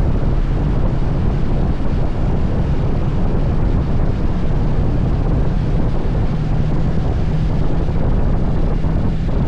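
Steady, loud wind roar buffeting the microphone, with a low rumble underneath, as heard riding on a motorcycle.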